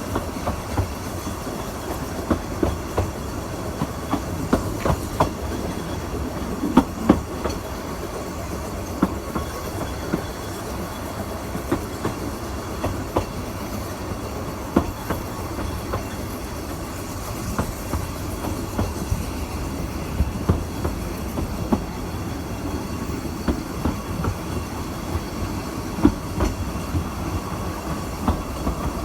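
Narrow-gauge railway carriage running along the track: a steady rumble with irregular clicks and knocks of wheels over rail joints and rattling.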